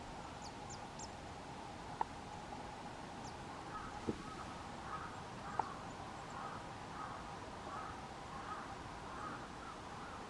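A crow cawing in a long series of evenly spaced caws, starting a few seconds in. A few thin, very high calls come before it, and there are several sharp clicks.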